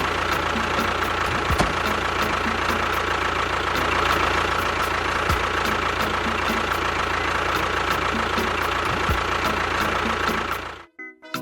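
A vehicle engine running steadily with a steady whine over it, then cutting off suddenly near the end.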